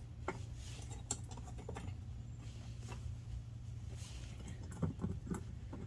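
Light, scattered clicks and taps of metal parts being handled as a burner is seated in a propane forge's burner holder, over a steady low hum.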